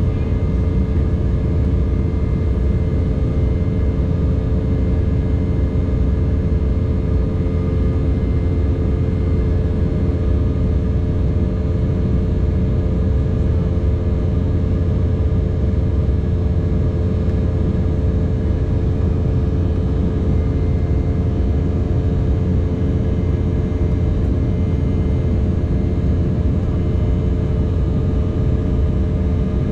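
Steady cabin noise of an Embraer 190 airliner in flight: a deep, even rumble of airflow and its GE CF34 turbofan engines, with a constant hum of several fixed tones.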